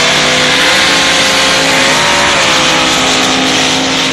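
Sand drag race trucks' engines at wide-open throttle during a pass, loud, the pitch climbing at the start and then holding nearly steady with small steps.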